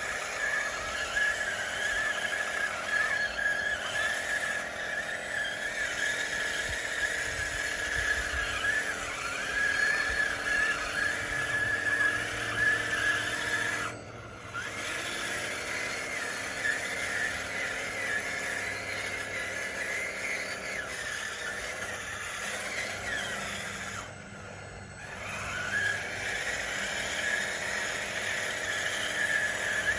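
Radio-controlled model bulldozer's electric drive and hydraulics running with a steady high-pitched whine. The sound drops away briefly twice, about halfway through and again later, and each time winds back up in pitch.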